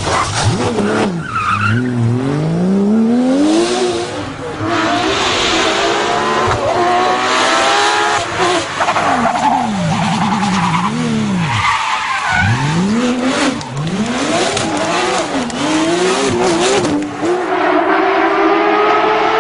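Porsche 911 GT3 rally car's flat-six engine revving hard, its pitch rising and falling again and again as it works through the gears and passes by.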